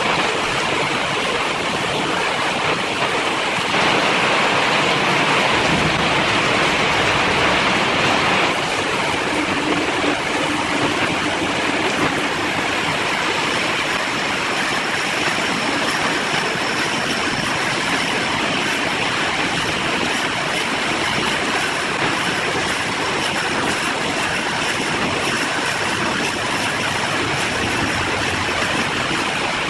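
Steady rushing noise of woodturning work, typical of a wood lathe with a tool or sandpaper on the spinning piece. The texture shifts about eight seconds in, and a faint high whine joins it from about thirteen seconds in.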